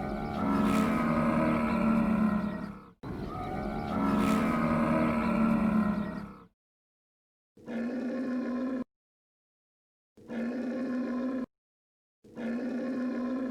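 Camel crying out: two long, drawn-out calls back to back, then three shorter calls of about a second each with pauses between them.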